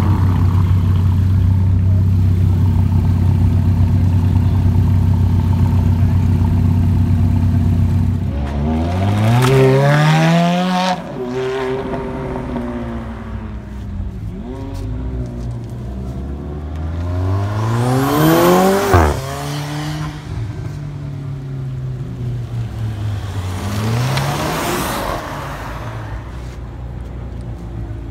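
A car engine running at a steady low pitch. About eight seconds in, it gives way to engine revs that rise and fall in three separate swells, the middle one climbing highest.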